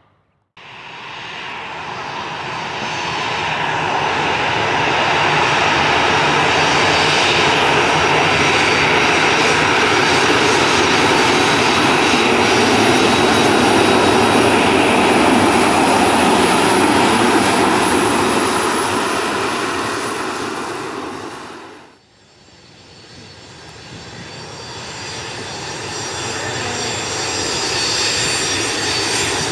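Airliner jet engines, loud and steady: the noise swells over a few seconds, holds, then dies away. A second airliner's engines build up again near the end.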